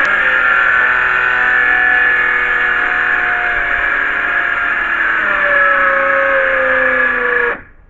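An old DeWalt power saw running through wood, its motor pitch slowly sagging under the load of the cut. The sound stops abruptly just before the end.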